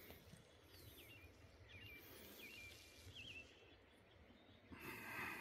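Quiet outdoor ambience with a few faint, short bird chirps spread over the first few seconds, then a brief rise of noise near the end.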